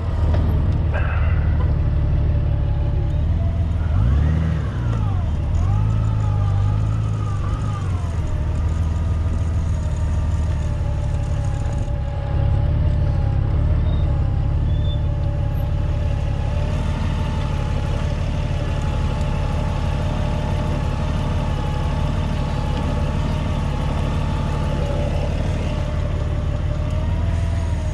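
Honda Gold Wing touring motorcycle's engine running steadily at low speed, rising and falling briefly about four seconds in, with a thin steady whine over the hum.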